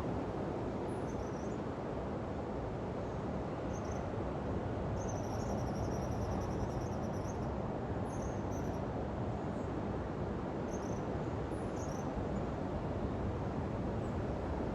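Steady rush of surf and wind on an open beach, with short high chirps scattered over it and a high trill lasting a couple of seconds about five seconds in.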